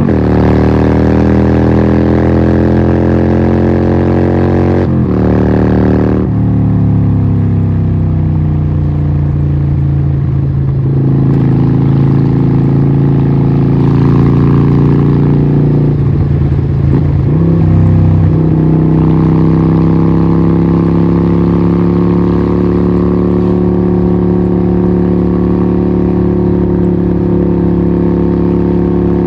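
Harley-Davidson 1200 Nightster's 1200cc Evolution V-twin running through a Vance & Hines exhaust. The engine note falls off over the first few seconds, with a brief break about five seconds in, changes revs again around eleven and seventeen seconds, then settles into a steady note that climbs slightly.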